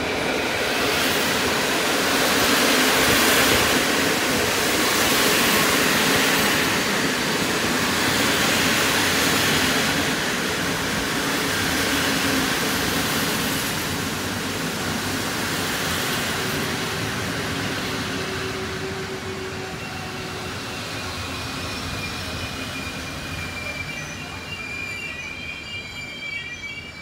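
A passenger train running past along the platform, its carriages and wheels rumbling loudly in waves that slowly die away. Then a PKP Intercity EU160 (Pesa Gama) electric locomotive and its train approach, with a high squeal from the wheels growing near the end.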